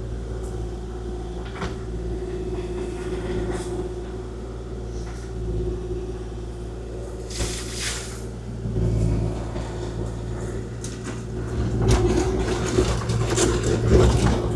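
Kubota KX040-4 mini excavator's diesel engine running steadily, the hydraulics working. It gets louder and rougher about nine seconds in and again near the end, with scattered knocks and rattles as the bucket handles rock.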